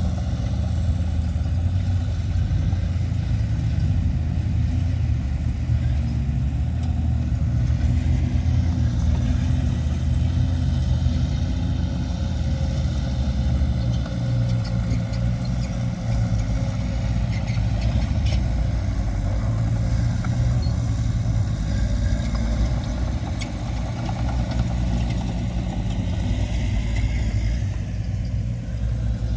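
Diesel engines of heavy earthmoving machinery (bulldozer and dump trucks) running steadily, heavier in the first half, with a few faint clanks.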